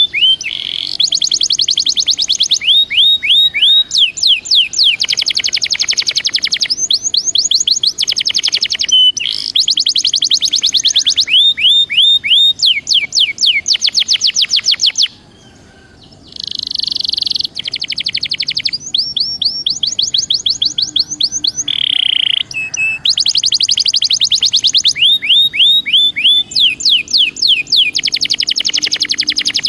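Belgian canary singing a long song of fast trills: runs of rapidly repeated whistled notes, each run giving way to a new note every second or two, with a brief pause about halfway through.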